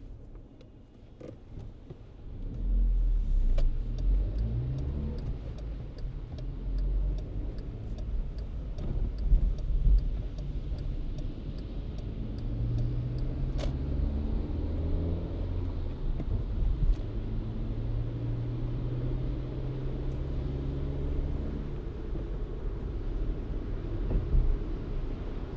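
Car driving: engine and tyre noise that picks up about two seconds in, the engine pitch rising and falling as the car accelerates and eases off.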